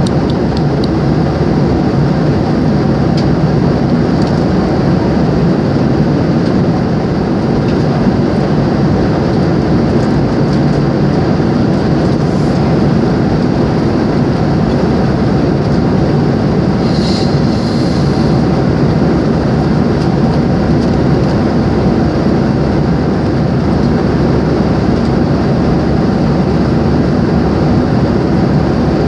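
Airliner cabin noise: the steady, loud rumble of engines and airflow, unchanging throughout.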